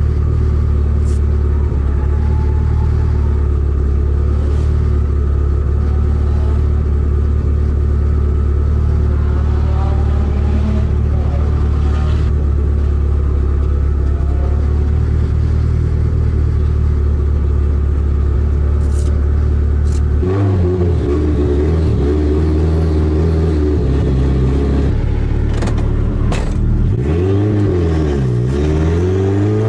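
Engine of an S13 Nissan Silvia fitted with an HKS 2530 turbo, heard from inside the cabin, idling steadily for about twenty seconds. The car then pulls away, its revs rising and falling and climbing again near the end.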